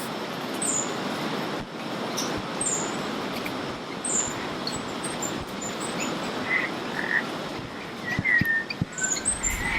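Wet rainforest soundscape: many frogs and birds calling over a steady hiss. Short high chirps come every second or two, and a few whistled notes of a spot-winged thrush's song come in the second half.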